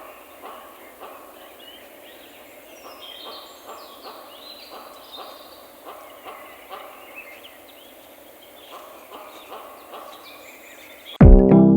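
Quiet autumn-forest ambience with small birds chirping and calling, and soft regular steps through dry leaves about twice a second. Near the end, loud electronic music with a drum-machine beat cuts in suddenly.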